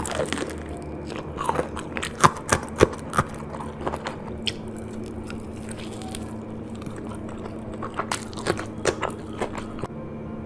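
A person biting and chewing crunchy food up close, with crisp crunches packed into the first three seconds and another run of them near the end, over a steady low hum.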